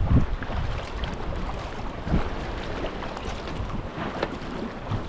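Water sloshing and splashing around a sea kayak as it is paddled, with wind buffeting the microphone. There are two heavy low thumps, one at the very start and another about two seconds in.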